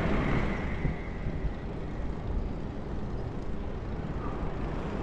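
Steady rumble of city traffic and road noise heard from a moving electric bike, with a faint high tone that fades out within the first two seconds.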